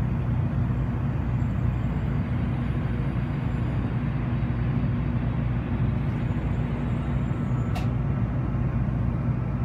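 Shinkansen train's running rumble heard from inside the passenger cabin as it moves through a station, steady and low. A short sharp click sounds once near the end.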